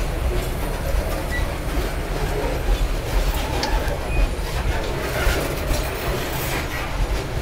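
Freight-train hopper cars rolling past at close range. The wheels on the rails make a steady rumble with frequent clicks, and now and then a brief high squeal.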